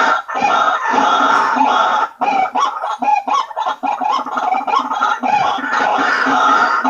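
White-breasted waterhens (ruak-ruak) calling in a loud, continuous chorus of harsh repeated notes. The notes turn rapid and choppy about two seconds in. This is the lure call used to draw the birds in.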